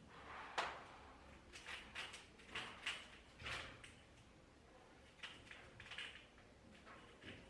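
Faint, irregular scraping strokes of a plastering tool drawn across a wall, about a stroke or two a second.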